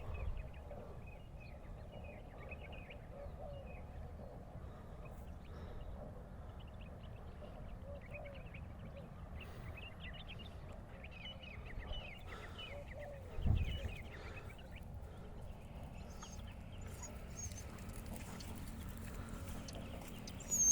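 Faint, scattered high-pitched chirps and squeaks from animals, with a single dull low thump about thirteen seconds in.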